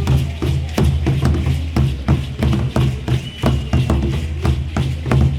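Percussion for an Aztec dance: a deep drum beaten in a steady driving rhythm, with many sharp clacking strokes laid over it.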